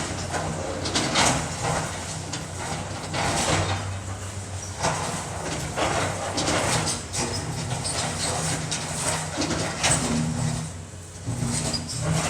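Demolition of a building: a heavy machine's engine running steadily underneath repeated irregular crunching, scraping and crashing of debris as the structure is torn down.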